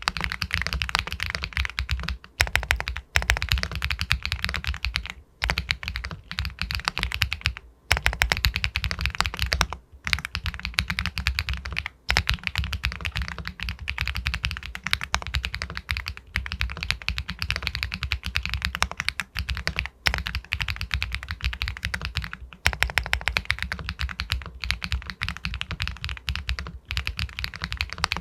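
Fast continuous typing on an Epomaker Galaxy 80 Pro aluminium-cased mechanical keyboard with White Jade linear switches, a dense run of keystrokes likened to pebbles clacking. The typing breaks off for brief moments a handful of times.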